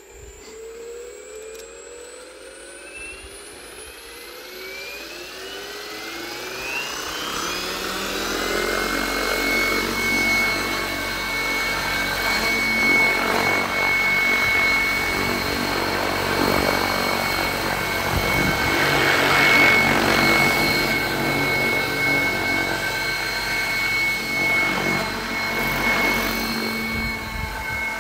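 KDS Agile 7.2 700-size RC helicopter spooling up: the motor and drivetrain whine rises in pitch for about eight seconds while the rotor noise grows louder. It then holds a steady high whine with rotor noise at flying head speed.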